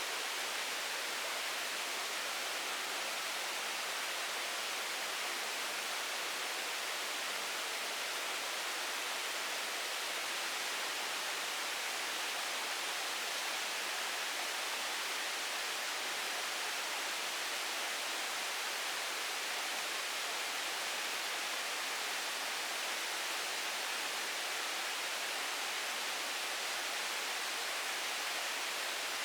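Steady, even hiss of noise with no distinct events.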